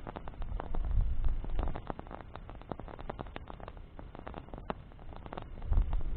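Campfire of burning branches crackling, with many irregular sharp snaps and pops over a low rumble of the flames that swells about a second in and again near the end.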